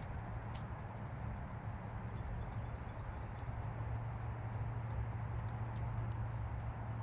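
Outdoor walking ambience: footsteps on a path over a steady low hum.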